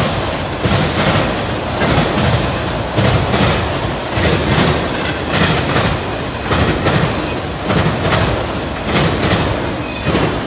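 Freight train cars rolling past at speed, their wheels clacking over rail joints in a regular rhythm of about one beat a second, often in close pairs, over a steady rumble.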